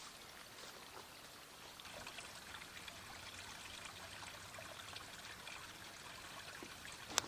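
Faint running water, a steady trickle, with a sharp click just before the end.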